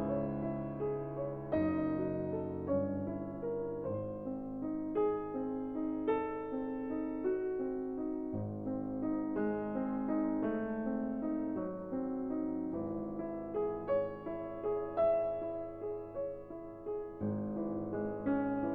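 Background piano music: a melody of struck notes over held lower notes.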